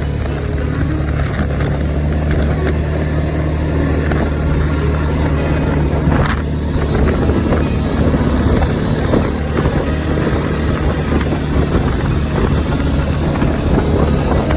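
An engine running steadily, with an even low drone throughout.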